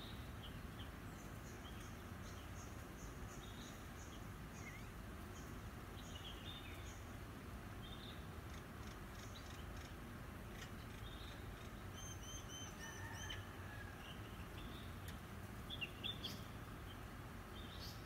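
Small birds chirping faintly over steady low background noise, with a quick run of about five repeated notes about twelve seconds in and a few sharper chirps near the end.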